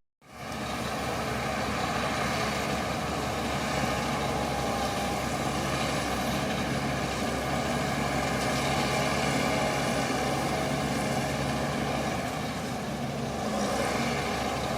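Shantui crawler bulldozer's diesel engine running steadily with a low rumble, after a brief break just as it begins.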